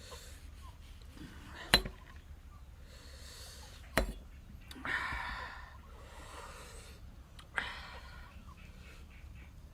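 A person eating, with breathy hissing intakes of air through the mouth and three sharp clicking smacks.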